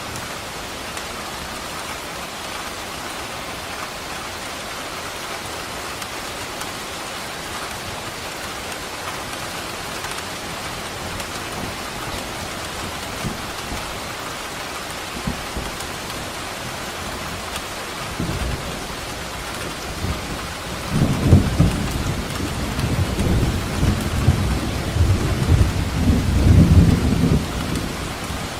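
Steady rain falling, with a low rumble of thunder coming in about two-thirds of the way through and rolling loudest near the end.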